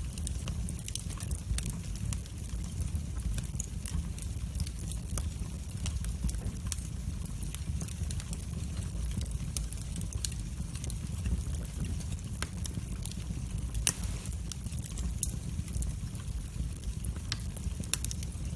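Wood fire burning in a fireplace: a steady low rumble of flames with frequent small crackles and pops, and one sharper pop about fourteen seconds in.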